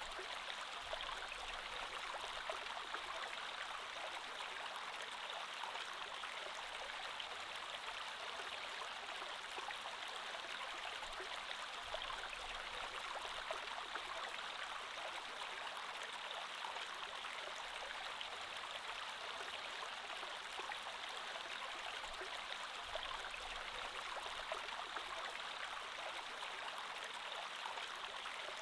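Creek water flowing and babbling steadily over stones, an even rushing with fine splashes.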